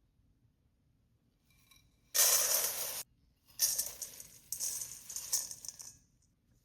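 Dry granola ingredients (oats, seeds or nuts) poured into a bowl: a sudden pour of about a second that stops sharply, then a longer uneven pour with small pieces clinking and rattling.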